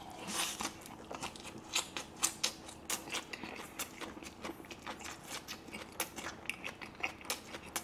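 Close-miked chewing of a mouthful of tortilla wrap with raw vegetables: irregular crisp crunching clicks, several a second.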